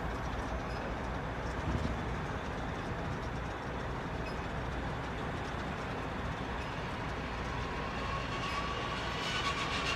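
Steady mechanical noise of heavy machinery or a vehicle running, with a low rumble throughout and a faint thin tone near the end.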